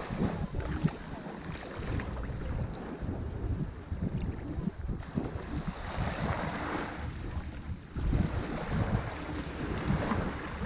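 Ocean waves breaking and washing up a shore, the surf swelling twice, with wind buffeting the microphone in a low rumble.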